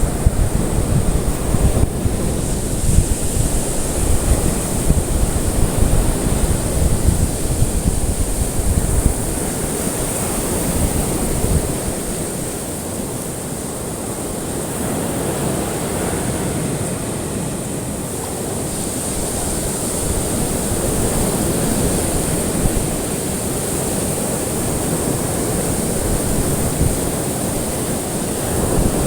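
Ocean surf: a continuous wash of breaking waves, rumbling heavily for the first third and then settling into a softer, slowly swelling wash.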